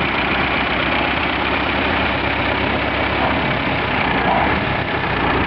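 A car engine idling steadily, with faint voices in the background.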